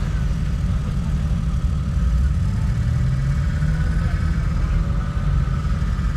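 Jeep Wrangler's engine running at low revs as it crawls over a rock ledge, the revs rising a little about two seconds in and easing back after about four.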